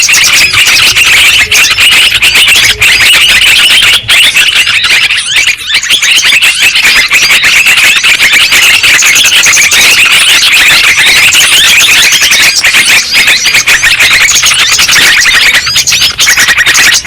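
Yellow-vented bulbul (trucukan) calls, played loud as a bird lure: a dense, unbroken stream of rapid, overlapping chattering and bubbling notes.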